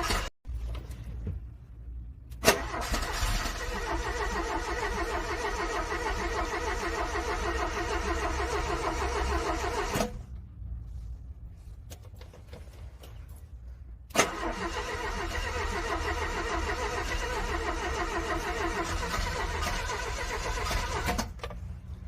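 Cold car engine being cranked by its starter motor without catching. There are two runs of fast, even cranking, each about seven seconds long, with a pause between them. Each run begins with a sharp click as the starter engages and stops abruptly.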